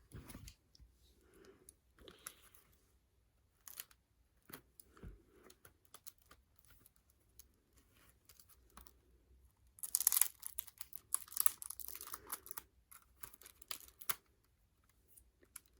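Light taps and clicks of an album being handled, then about ten seconds in a few seconds of plastic packaging crinkling and tearing, starting again near the end.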